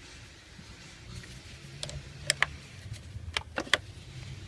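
Hand tools clicking and clinking against metal while the battery cable is being taken off: about six short sharp clicks in the second half, over a faint low hum.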